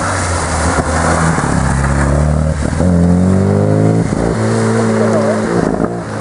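Classic Mini rally car's four-cylinder engine revving hard through a hairpin, its pitch climbing, breaking sharply at a gear change about four seconds in, then climbing again. A steady hiss from the soaked road sits underneath.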